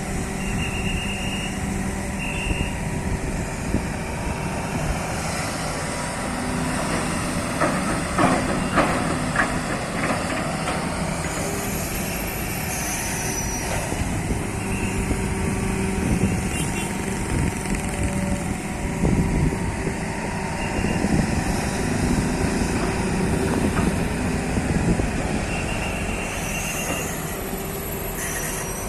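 Hydraulic excavator engine running steadily under load, with a cluster of metallic clanks partway through and a few short high beeps early on and near the end.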